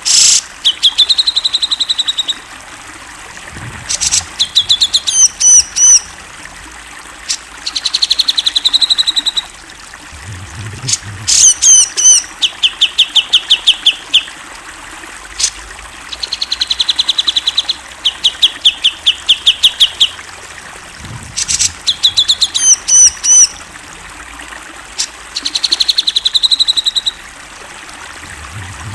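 Grey-cheeked bulbul (cucak jenggot) singing: a loud phrase of clear whistles and fast ringing trills, repeated over and over every few seconds, over a steady faint hiss.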